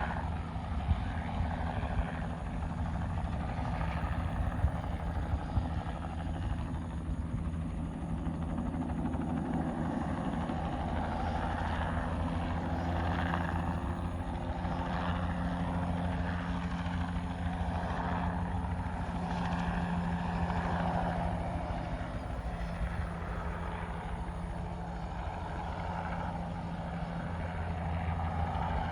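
Crop-spraying helicopter running steadily, with rotor chop over the engine note. It grows louder near the end.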